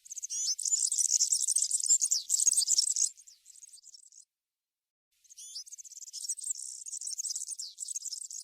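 European serin singing: a rapid run of high-pitched notes for about three seconds that fades out, a second of silence, then a second song phrase starting just past halfway through.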